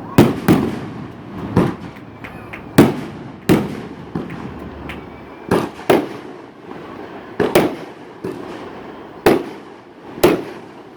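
Aerial fireworks salutes bursting overhead: about eleven sharp bangs at uneven intervals, some in quick pairs, each trailing off in an echo.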